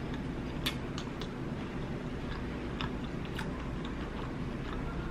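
A person chewing a bite of fried shrimp close to the microphone, with scattered small wet mouth clicks and soft crackles.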